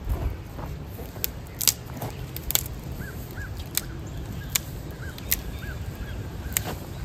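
Wood fire crackling in a small stove, with sharp scattered pops, over wind rumbling on the microphone. A bird calls a short series of chirps in the middle.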